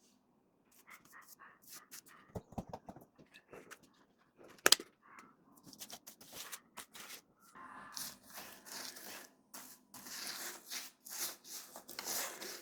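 Paintbrush strokes on a door frame, a run of short, faint scratchy swishes that come more often in the second half. One sharp click sounds a little under five seconds in.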